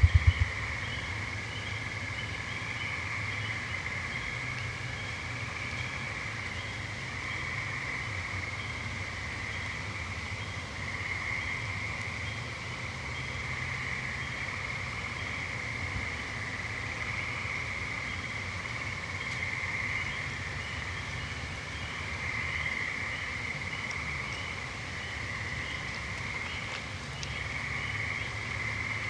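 Evening chorus of frogs and toads trilling without pause, a continuous high, even buzz that swells and fades slowly, over a low steady rumble.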